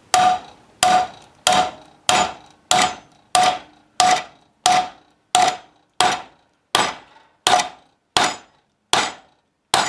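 A hammer driving a bent nail with about fifteen steady, evenly paced blows, roughly three every two seconds, each with a short metallic ring. The nail is struck on the same side as its bend, which drives it in without bending it further.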